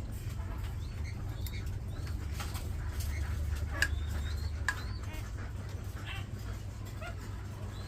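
Hill myna giving scattered short chirps and rising whistles, with a few sharp clicks, over a steady low hum.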